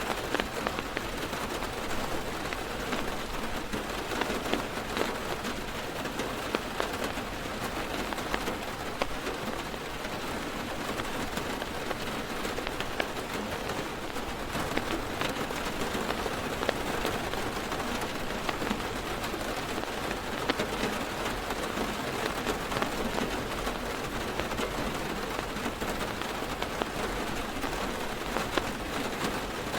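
Heavy rain falling on a car's roof and windows, heard from inside the car: a steady hiss with many sharp taps of single drops scattered through it.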